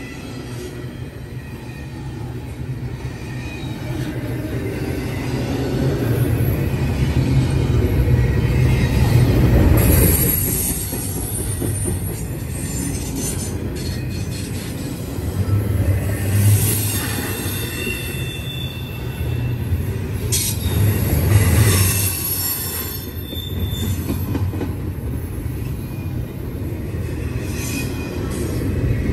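Double-stack intermodal freight cars rolling past close by: a steady rumble and clatter of steel wheels on the rails, with high wheel squeal rising and falling in several surges, the loudest about ten, sixteen and twenty-one seconds in.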